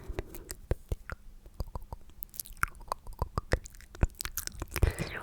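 Close-miked ASMR sticky mouth sounds: a rapid, irregular run of wet clicks and smacks from lips and tongue, with a louder, denser wet burst near the end.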